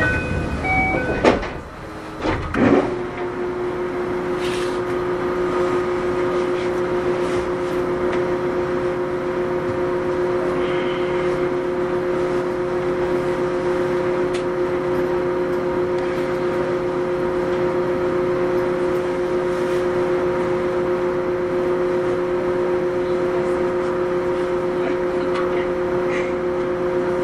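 Inside a 521 series electric train standing at a station: a knock with short chime tones in the first second and a second knock at about three seconds, which fit the doors and their chime. Then the train's onboard equipment hums steadily, two constant tones that do not change in pitch, so the train is not under power.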